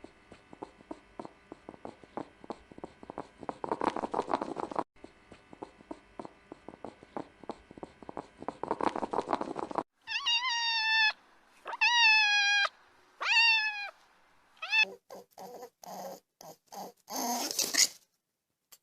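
Domestic cat sounds: a rough, rattling purr-like stretch heard twice, then three drawn-out meows about a second each that fall in pitch at the end, then several shorter cries.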